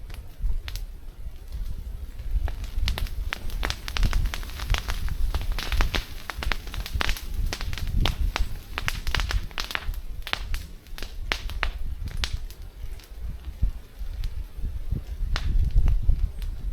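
Irregular crackling and clicking, densest through the middle, over a low uneven rumble.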